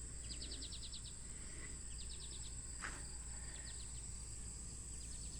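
Insects chirping outdoors: short bursts of rapid pulses repeat about every second and a half over a steady high-pitched insect drone. There is a single light tap about three seconds in.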